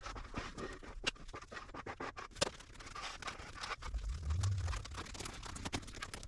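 Irregular scratching and scraping on a hard surface, broken by sharp clicks and taps, with a low thump a little after four seconds.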